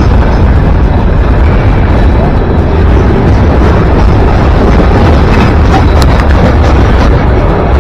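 Train passing close by: a loud, steady rumble and rolling roar, heaviest in the bass, with no letup.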